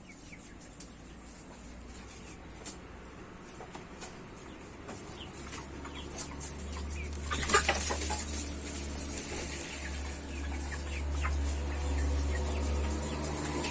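A flock of broiler chickens clucking, with a brief loud rustling burst about halfway through and a low steady hum building in the second half.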